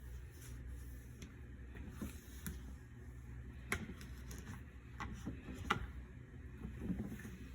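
Scattered light clicks and taps from cleaning a dishwasher door by hand, three sharper ones in the middle stretch, over a low steady hum.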